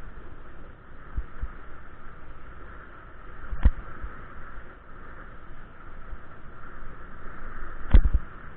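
Steady noise of riding a bike, picked up on the rider's camera, with a few knocks; the two sharpest come about three and a half and eight seconds in, the later one the loudest.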